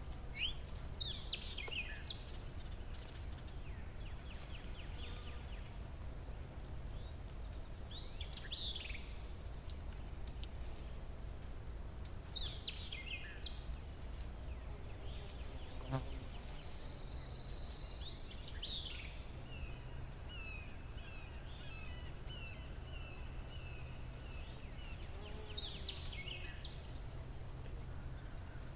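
Forest ambience: a steady, high, pulsing insect trill over a low rumble, with birds giving short sweeping calls every few seconds and one bird repeating a run of short notes a little past the middle.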